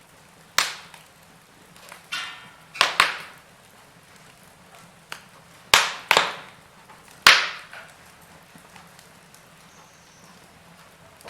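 Wood fire crackling: about seven sharp pops and snaps from burning logs, irregularly spaced and each fading quickly, over a faint steady hiss.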